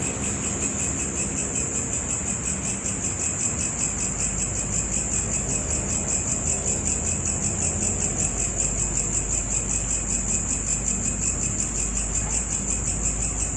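Insects chirring in a steady, rapid, high-pitched trill, cricket-like, that runs without a break.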